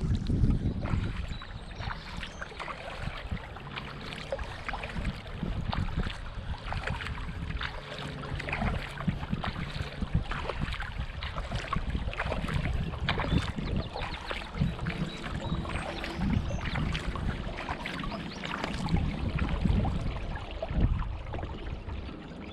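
Kayak paddle dipping and pulling through calm water, with many small splashes and drips off the blade, over a low rumble of wind on the microphone.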